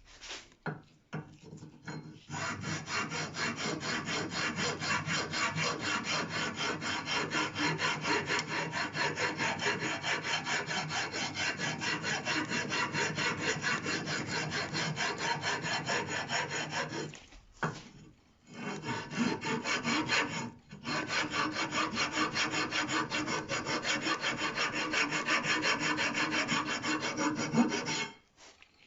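Hand file rasping rapidly back and forth on a steel brake part, in a steady rhythm of strokes with two short pauses in the second half. The part is being filed flat where a straightedge check showed gaps, to stop the brakes squealing.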